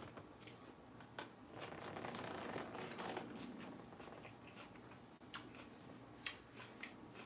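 Faint crunching of lettuce being chewed, with a few sharp mouth clicks near the end.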